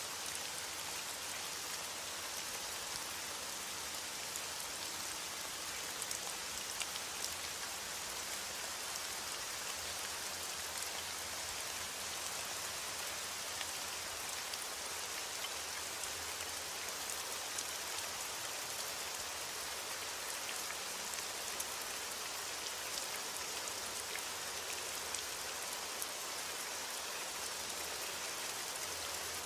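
Heavy rain beating on a window: a steady, even hiss with scattered small ticks of drops.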